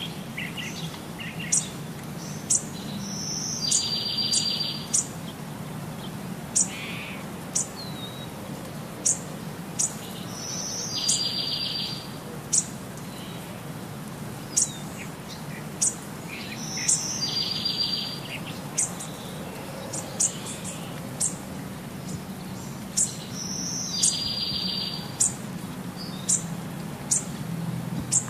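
Birds chirping: short high chirps every second or two, and a buzzy trilled song phrase about a second long that repeats every six to seven seconds.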